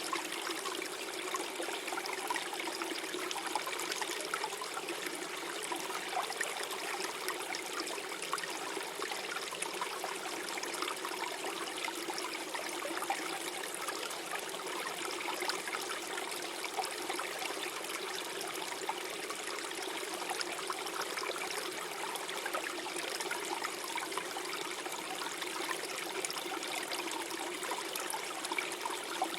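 Small forest stream flowing and gurgling over stones, a steady even babble with no breaks.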